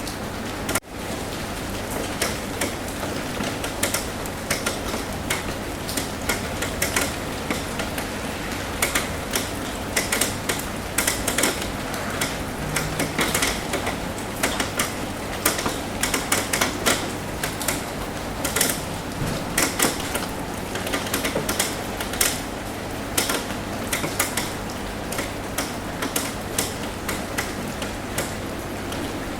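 Rain on a roof: irregular sharp taps of drops over a steady hiss. The taps come thicker in the middle stretch.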